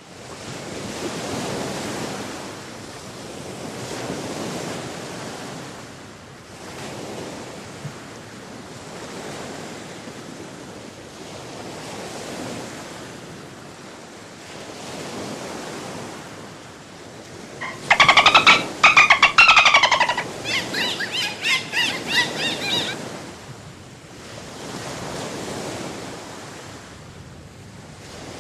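Ocean surf washing in slow swells. About two-thirds of the way through, a loud burst of dolphin clicks and whistles, followed by a few seconds of rapid chirping calls.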